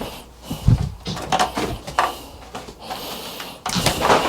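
Knocks and clatter of a refrigerator's fan cover being handled and fitted back into place: several sharp knocks, then a longer scraping rustle near the end.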